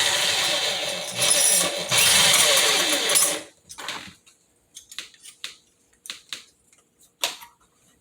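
Power drill boring a hole for a blind bracket screw: it runs for about three and a half seconds, then stops. A short burst follows, then light clicks and handling sounds.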